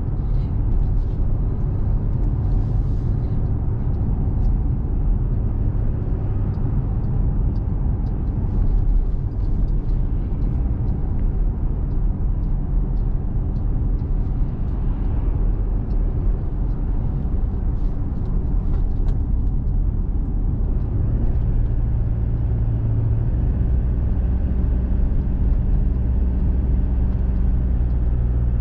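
Engine and road noise heard from inside a small truck's cabin while driving, a steady low rumble. About two-thirds of the way through, a steady low engine hum becomes more prominent.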